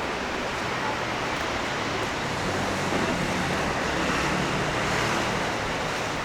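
Steady road traffic noise from an urban street, swelling slightly around the middle as vehicles pass.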